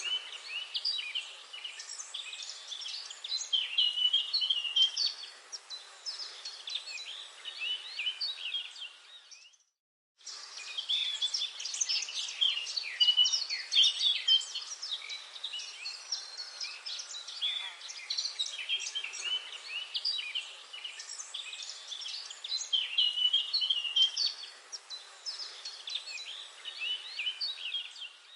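Forest birdsong: a dense chorus of many birds chirping and trilling over a faint hiss. It drops out abruptly to silence for a moment about ten seconds in, then resumes.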